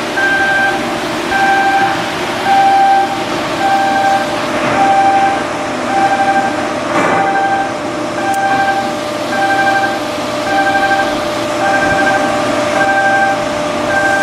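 Electronic warning beeper sounding a repeated pitched beep about once a second, over a steady mechanical hum, with a single knock about seven seconds in.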